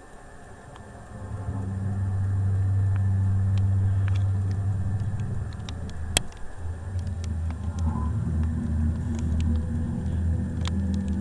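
A deep, steady low drone that swells in about a second in and holds. It breaks off around the middle with a single sharp click, then comes back and carries on. This is the unexplained 'strange noise' reported all across the town.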